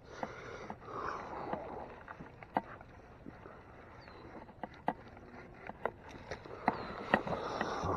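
Fishing reel being cranked in short spells while fighting a hooked trout from a kayak, with scattered sharp clicks and knocks and light water noise.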